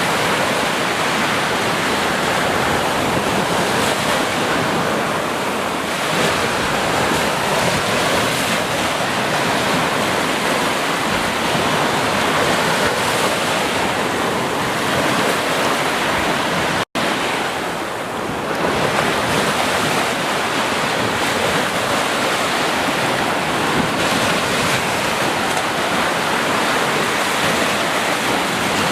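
Ocean surf breaking continuously on a beach: a steady wash of waves that swells and eases slowly. The sound drops out for a split second about seventeen seconds in.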